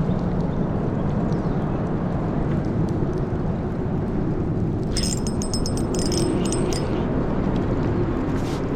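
Boat motor running steadily as the boat turns around, with a brief burst of metallic clicking and jingling about five seconds in.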